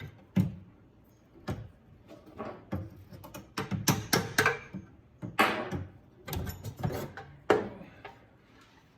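Irregular clanks, knocks and short scrapes of hand tools working on the old exhaust pipes.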